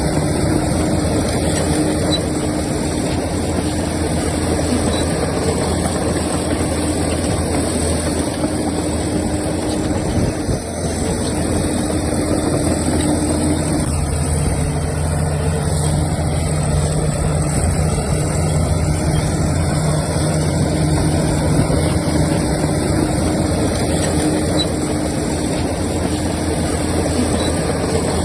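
Heavy diesel engine of earthmoving machinery running steadily, with a brief dip about ten seconds in after which its note shifts.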